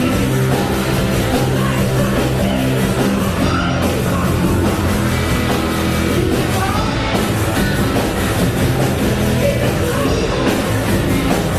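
Loud rock music with distorted electric guitars, bass and drums playing steadily, with some singing.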